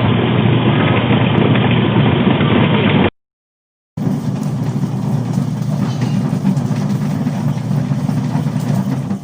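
Electric motor of a washing machine turned pottery wheel, running steadily. The sound cuts out completely for about a second, about three seconds in, then the motor runs again.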